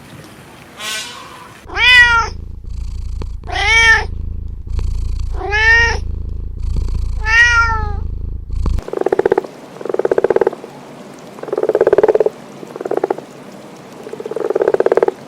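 Animal calls: four loud, arched calls, rising then falling in pitch, about two seconds apart, followed by a run of shorter, quavering calls.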